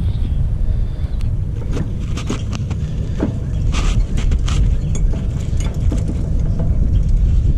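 A steady low rumble with scattered light clicks and knocks of metal parts being handled at a lawn tractor's mower deck linkage.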